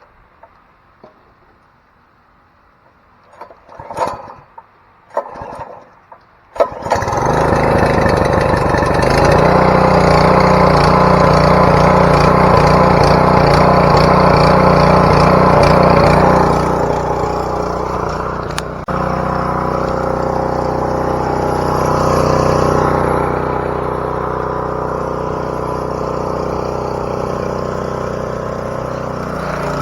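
Small gasoline engine being pull-started: a few short pulls, then it catches about seven seconds in and runs steadily, settling to a lower, quieter run partway through.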